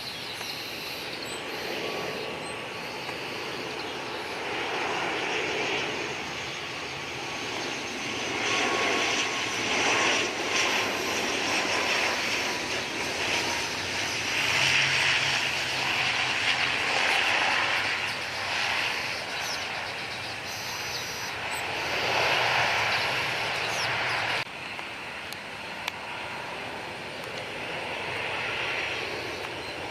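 ATR 72-500 turboprop's engines and propellers running, a steady rushing noise with a faint whine that swells and fades. About three-quarters of the way through it cuts abruptly to a Boeing 737-800 jet on landing.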